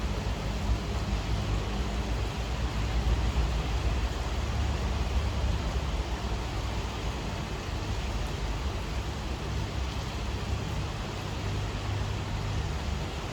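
Steady rainfall: an even, unbroken hiss with a strong low rumble underneath.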